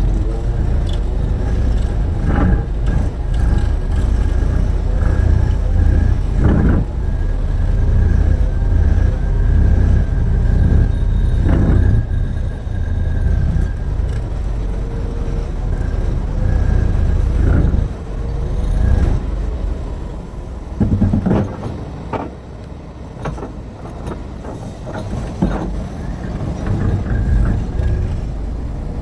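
Heavy diesel engine of a large hydraulic excavator running under load: a deep steady rumble with a thin high whine, broken by a handful of sharp knocks and clunks, as of rock striking the bucket or the load. The engine settles lower about two-thirds of the way through.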